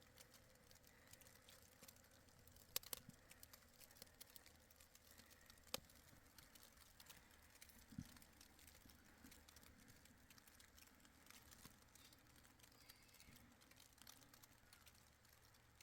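Near silence, broken by a few faint, short clicks about three, six and eight seconds in.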